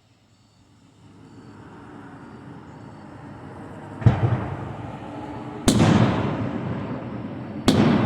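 Aerial fireworks shells bursting: three loud booms about a second and a half to two seconds apart, each trailing off in a rolling rumble, over a low rumble that builds from about a second in.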